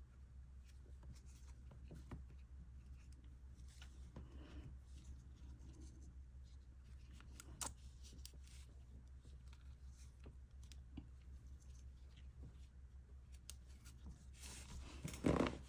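Faint scattered clicks and soft rubbing of a crochet hook working yarn, over a low steady hum, with a louder rustle near the end.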